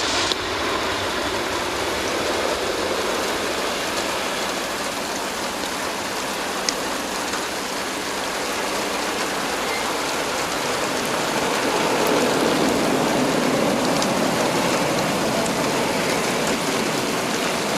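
Boeing 767-300 jet engines: a steady, broad roar that swells somewhat about twelve seconds in.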